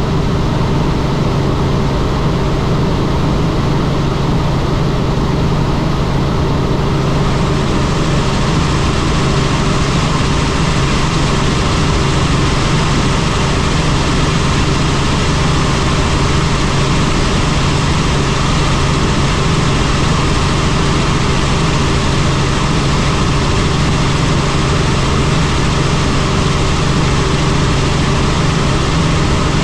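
Helicopter in flight: a steady drone of rotor and turbine with a constant low hum, under a rushing hiss that grows louder about seven seconds in.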